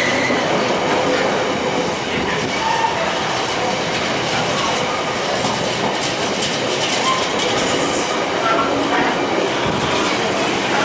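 A train running on the rails: a steady rumble of wheels and running noise, with light clicks from the wheels about six to eight seconds in.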